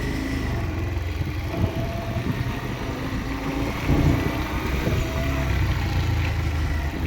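Motorcycle engine running steadily while riding, under a constant low rumble.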